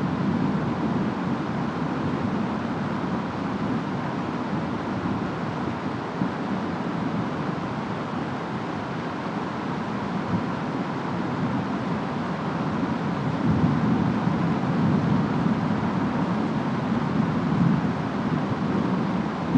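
Steady rainstorm ambience: rain and wind as an even, deep-toned noise, swelling in the low end for a few seconds about two-thirds of the way through.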